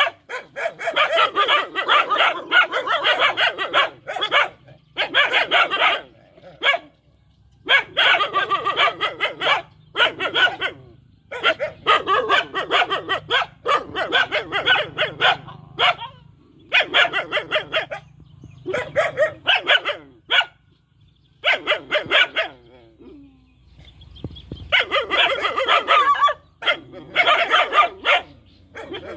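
Puppies barking in rapid volleys of yappy barks, broken by short pauses.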